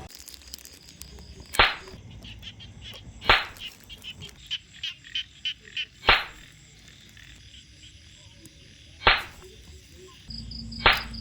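A frog calling: five loud, very short, sharp croaks spaced one to three seconds apart, with a quick run of softer clicking croaks between the second and third.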